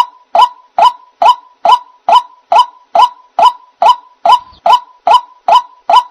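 White-breasted waterhen (ruak-ruak) call used as a trapping lure: a short, harsh note repeated evenly a little over twice a second, about fourteen times without a break.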